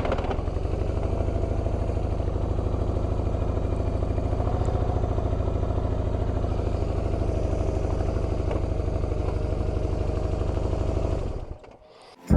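BMW R1100RT's air/oil-cooled boxer twin engine running steadily at a constant pitch while the motorcycle is parked. It stops about eleven seconds in.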